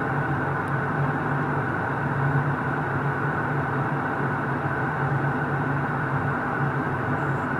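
Airliner cabin noise in flight: the steady drone of the jet engines and airflow past the fuselage, with a low hum underneath.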